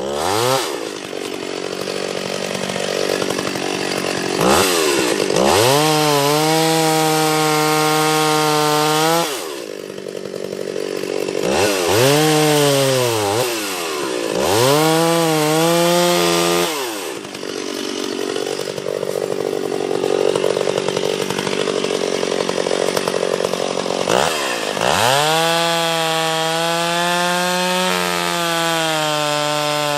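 Two-stroke chainsaw cutting wood, throttled up to a high steady pitch and let back down to idle about six times, so the engine note keeps falling and climbing again.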